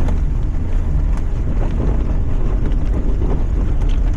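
Lifted Mazda MX-5 driving over rough ground: a steady, heavy low rumble of engine and tyres, with scattered knocks and clatter from the car and a buffeting wind noise on the microphone.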